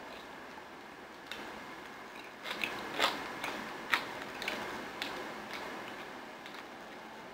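Close-up chewing of a mouthful of fruit and sea moss, with a scatter of short wet mouth clicks and smacks, most of them in the middle of the stretch.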